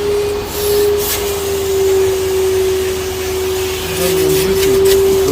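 Numatic Henry vacuum cleaner running with a steady whine over a hiss, its pitch dipping slightly about a second in. A few light clicks near the end.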